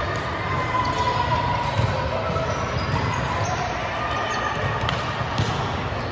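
Indoor volleyball hall ambience: volleyballs thudding on the hard court and off hands, with a steady murmur of indistinct voices echoing in the hall and a few sharp smacks about five seconds in.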